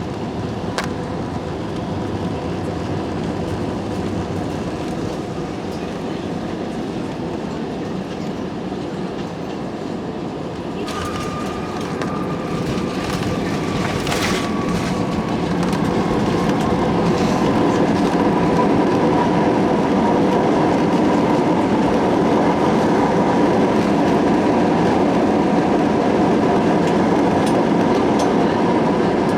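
Train running on rails: a steady rumble with a thin motor whine. A little over a third of the way in, the whine dips slightly in pitch, and the sound then grows louder and stays louder.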